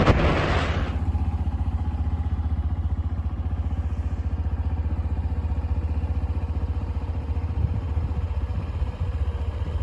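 Wind buffeting the microphone for about the first second, then a motorbike engine idling with a steady, even pulse.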